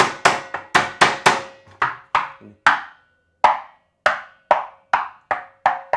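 A series of sharp, hard strikes on a wooden candombe drum shell fitted with metal hoops, about two to three a second, with a brief pause about halfway and a ringing note that lingers after the later strikes.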